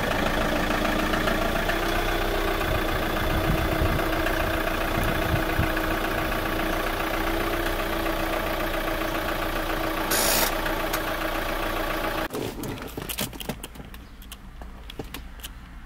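Chevrolet Captiva SUV's engine running steadily as the car moves off slowly from a standstill, with a brief hiss about ten seconds in. After about twelve seconds it cuts to quieter cabin sound with a few light clicks.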